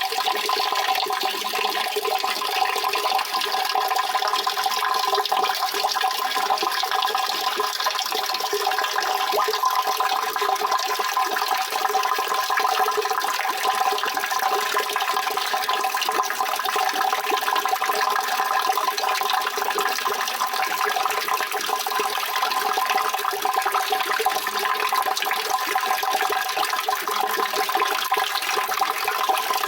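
Steady rushing of flowing water, with no changes or separate events.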